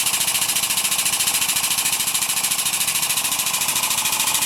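Power unit of a landing-gear handling machine running steadily, a loud mechanical hum with a fast, even pulsing.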